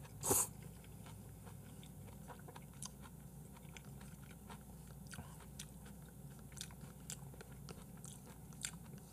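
A person chewing food close to the microphone: soft, scattered mouth clicks and chewing noises, with a brief louder sip or slurp from a cup right at the start.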